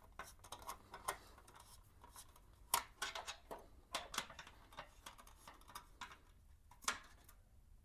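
Faint, irregular small clicks and taps of a screwdriver and a small bolt being worked as the bolt is started into its threads, with a few sharper clicks scattered through.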